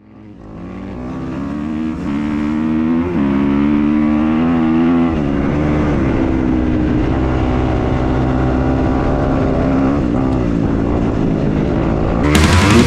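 Dirt bike engine running, fading in, its pitch climbing and dropping back twice, about three and five seconds in, like upshifts. Loud rock music with guitar cuts in near the end.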